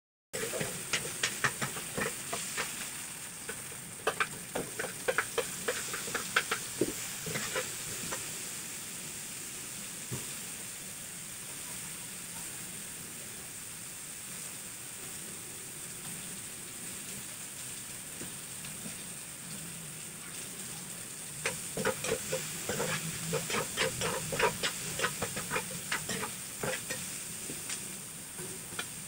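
Onion, ginger and garlic sizzling in oil in a metal wok, with a metal spoon scraping and clinking against the pan for the first eight seconds or so and again over the last seven. In between there is only a steady sizzle.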